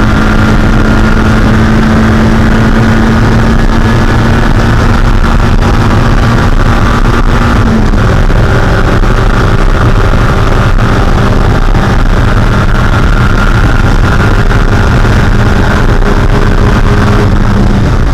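Mazda Miata 1.6-litre four-cylinder race engine running steadily at high revs under full throttle, heard from inside the car, with heavy wind and road noise. About halfway through, the pitch drops slightly and then holds.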